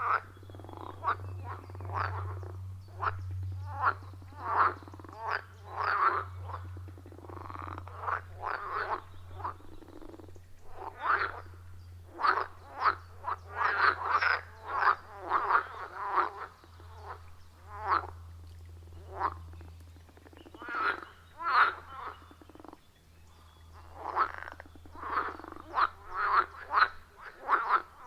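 A chorus of pond frogs croaking: many short calls, often several a second, overlapping in uneven bursts, over a faint steady low hum.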